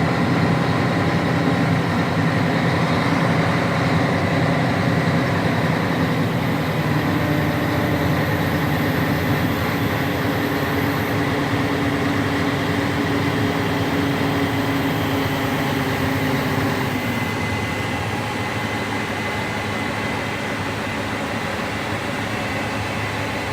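Scania 113 truck's six-cylinder diesel engine running steadily, getting a little quieter about two-thirds of the way through.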